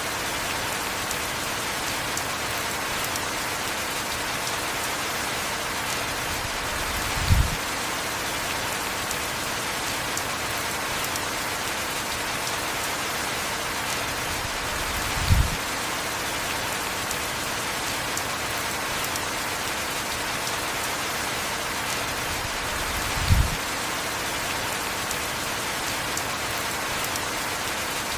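Heavy rain falling steadily as a dense, even hiss. Three short, dull low thumps come about eight seconds apart, near 7, 15 and 23 seconds in.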